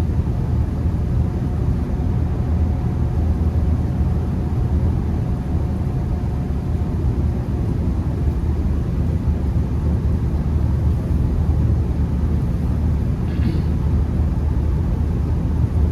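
Steady low road and engine rumble inside a Honda Accord's cabin while driving through a snowstorm, with tyres running on the snowy road.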